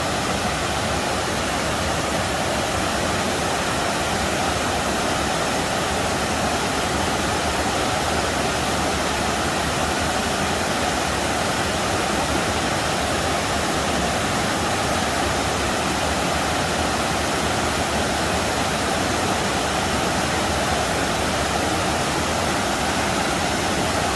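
A waterfall's steady rushing roar of falling water, close by, even and unbroken throughout.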